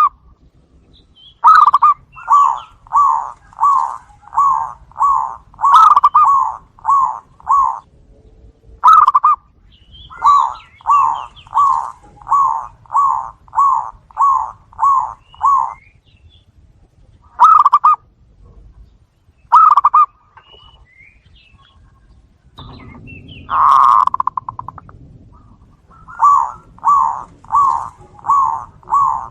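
Zebra doves (perkutut) cooing: strings of rolling coo notes, about two a second, in phrases of several seconds with short pauses between, as if birds are calling back and forth.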